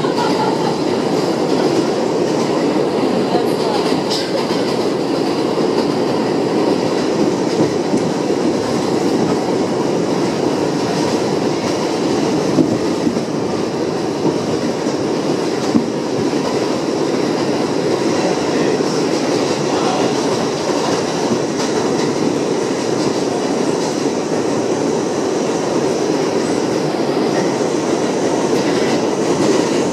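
Interior of an R62A subway car running steadily at speed on the 7 line, with continuous wheel-and-rail rumble and occasional clicks from the rail joints.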